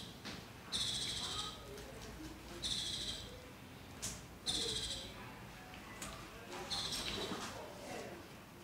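A bird's short, high buzzy call repeating about every two seconds. A few sharp clicks come between the calls, the clearest about four seconds in, from scissors snipping raffia ties off a dyed bundle of cloth.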